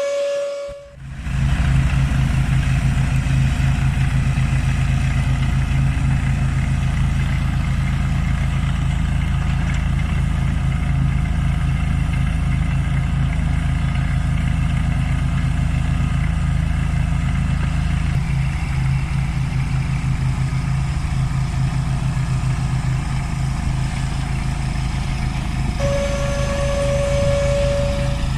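Engine running steadily with an even low chugging. A steady high whine sounds briefly at the start and comes back near the end.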